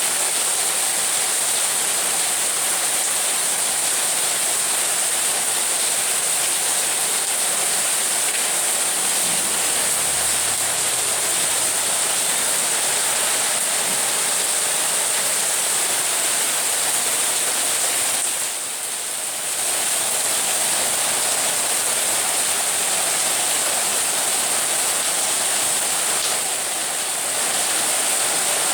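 Heavy rain pouring down in a steady, dense hiss, easing slightly for a moment twice, about two-thirds of the way in and near the end.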